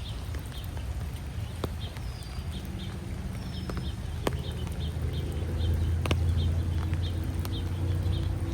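Footsteps walking steadily along a wet park path, in an even rhythm of about three steps a second. A short bird whistle sounds twice early on, and a low distant rumble swells in the second half.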